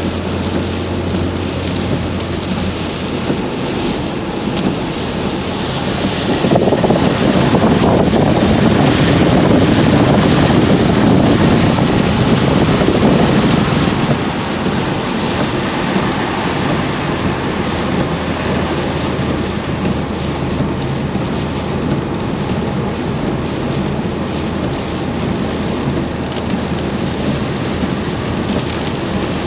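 Heavy rain with wind buffeting the microphone, a steady dense hiss with a low hum beneath it. The noise swells louder and deeper for about seven seconds before easing back.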